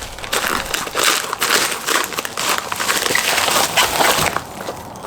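A parcel being opened by hand: rustling, crinkling and crackling of the packaging, which stops about four seconds in.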